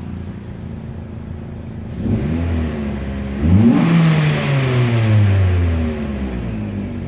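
2008 Mitsubishi Lancer GTS's 2.0-litre four-cylinder engine idling, then revved twice: a short blip about two seconds in, and a bigger rev a second and a half later that falls slowly back to idle.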